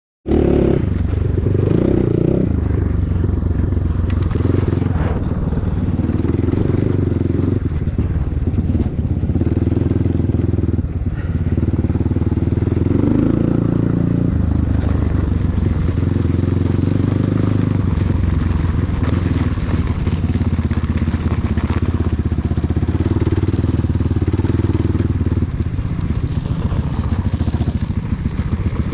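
Enduro motorcycle engine running under way, a steady low drone with its note shifting as the throttle changes. It cuts in suddenly just after the start.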